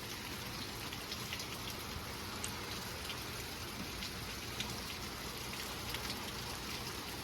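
Steady rain falling, with scattered sharp ticks of individual drops landing.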